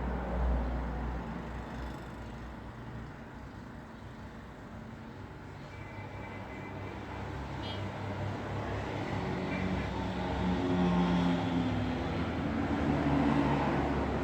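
Road traffic noise: motor vehicles driving past, with a steady rumble of tyres and engines. It eases off a few seconds in, then builds again as engines draw near in the second half.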